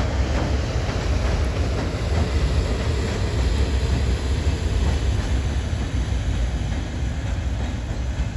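Freight train hauled by an EF510 electric locomotive, with container flatcars, rolling past and away. Its wheels on the rails make a steady rumble that eases off slightly near the end.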